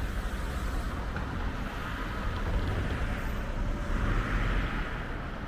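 Diesel passenger train running: a steady low rumble with an even hiss of running noise.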